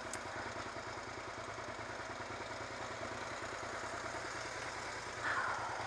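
Motorcycle engine running steadily at low revs, an even idle-like hum with a fast regular pulse.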